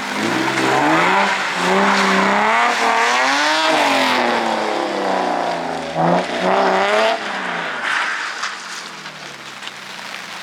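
Car engine revving up and down as a car drifts, its pitch rising and falling several times, with a sharp surge of revs a little past halfway before it fades toward the end.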